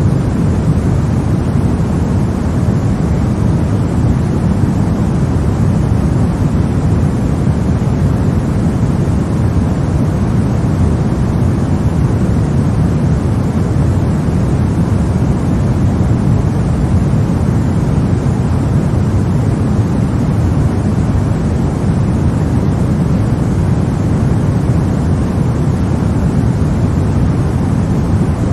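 Steady synthetic noise with most of its weight in the low end and the highs rolled off, like brown noise: an even, unchanging hiss-rumble of the kind played to help babies sleep.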